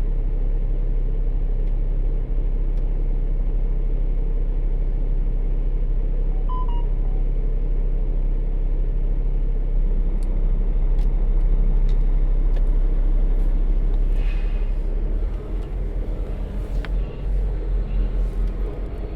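Semi truck's diesel engine running steadily at low speed with a deep, even rumble. Near the end it turns uneven and fluttering as the truck slows.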